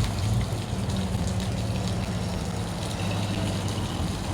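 Steady outdoor rushing noise with a low, even hum underneath.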